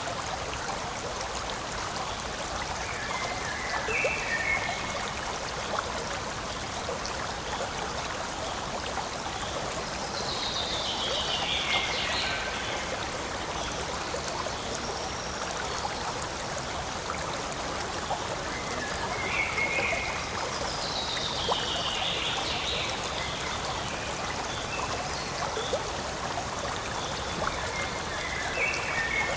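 Forest stream flowing steadily over rocks. An animal call recurs over it: a short descending phrase, heard several times about ten seconds apart.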